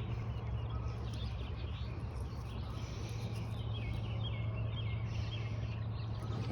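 Outdoor ambience with a steady low hum and birds chirping, with a run of short chirps in the middle.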